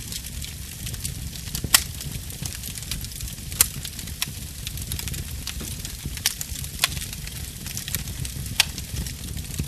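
Wood fire in a fireplace crackling, with many small ticks and a handful of sharp pops from the burning logs over a low steady rumble of flame; the loudest pop comes about two seconds in.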